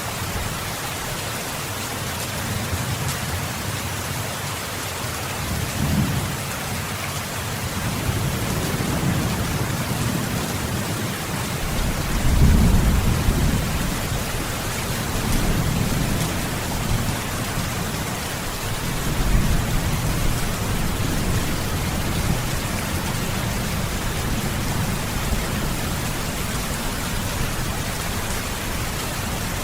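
Steady heavy rain with rolling thunder: several low rumbles swell and fade, the loudest about twelve seconds in.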